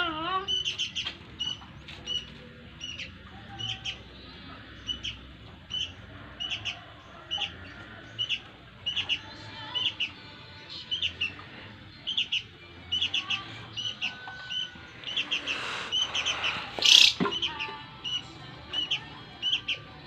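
Small birds chirping, short high chirps repeating about twice a second. A brief louder rustling noise comes about sixteen seconds in, ending in a sharp click.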